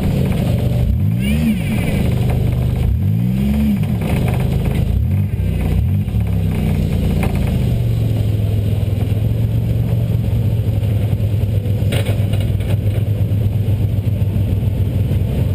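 A 2000 Buick LeSabre's 3.8-litre V6 blipped three times, the engine note rising and falling with each rev, the third one smaller, then settling to a steady idle.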